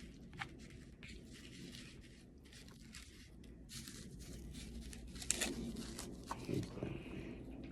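Quiet crinkling, crunching and tearing sounds of food being handled and eaten, with a few sharp clicks, the loudest about five seconds in.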